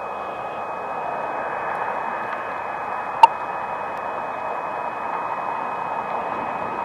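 Wind blowing across a camcorder's built-in microphone covered with plastic wrap, a steady hiss-like rush. A single sharp click about three seconds in.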